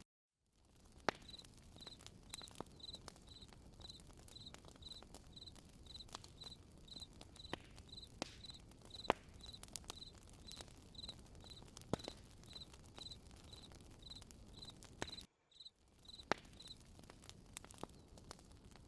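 Campfire crackling with scattered sharp pops, over a cricket chirping evenly about twice a second. The sound drops out completely for a moment at the start and again about fifteen seconds in.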